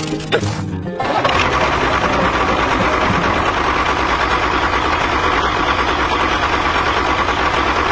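Music cuts off about a second in, and a mini tractor's small engine then runs steadily with a fast, even beat.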